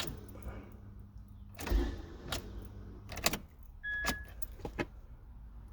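Car keys jangling and a few sharp, irregular clicks at a 2000 Nissan Altima, over a low steady hum. A short beep sounds about four seconds in.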